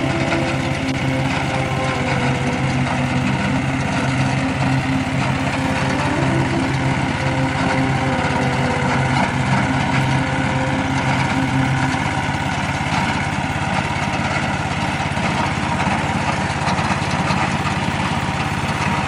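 The 13-horsepower Tosaka petrol engine of a FrankTech RCM 3X3A robotic lawn mower running steadily at an even speed.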